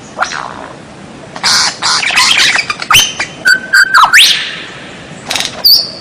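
White-rumped shama (murai batu) singing a varied, rapid phrase of whistles, rising and falling glides and sharp clicking notes, beginning about a second and a half in; after a short pause a brief burst of notes comes near the end.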